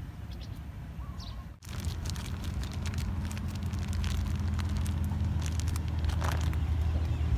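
Birds chirping faintly, then after a sudden cut an engine running steadily with a low hum that grows a little louder, with scattered clicks and crackles over it.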